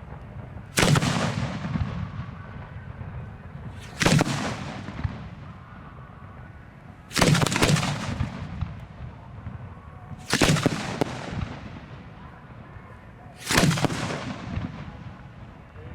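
Fireworks display heard from the shoot site: five loud booms from fireworks shells at an even pace, about three seconds apart, each trailing off over a second or two.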